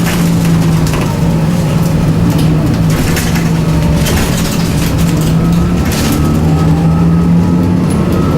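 Scania 9-litre six-cylinder turbocharged CNG engine of a city bus running steadily under way, its pitch holding nearly level. Several short rattles or knocks cut across it.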